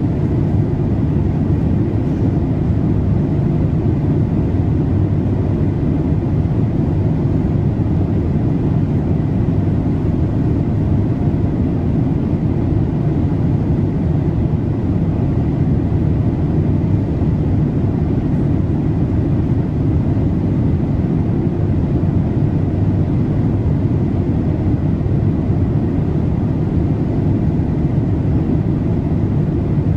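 Steady cabin noise of a Boeing 787-8 airliner in cruise: a deep, even rush of airflow and engines, with a faint thin steady tone above it.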